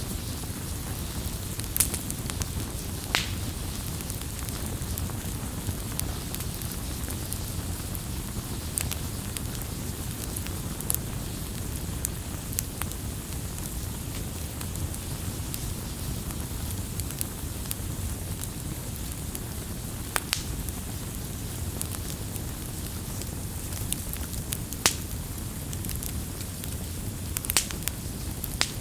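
Wood fire burning, with sharp crackles and pops scattered every few seconds over a steady low rush of flame.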